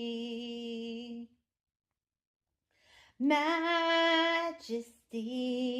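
A woman singing a hymn unaccompanied. She holds one long note, stops for nearly two seconds, then sings two more long held notes.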